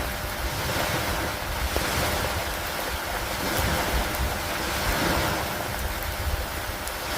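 Steady rain over lake water, the wash swelling and easing every couple of seconds, with a low rumble underneath.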